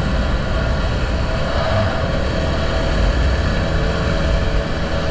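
Honda XR650L's single-cylinder four-stroke engine running at a steady cruise while riding, with wind and road noise over the microphone.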